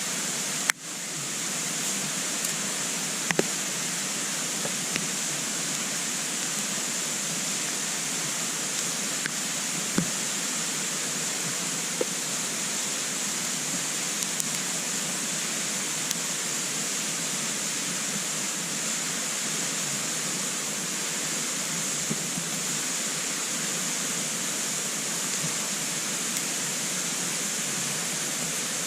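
Wood burning in a compact twig stove: a steady hiss of the fire with a few sharp crackles and pops from the burning wood.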